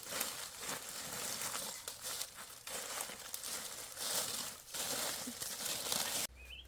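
Rustling and crinkling of dry material in irregular surges, cutting off abruptly near the end.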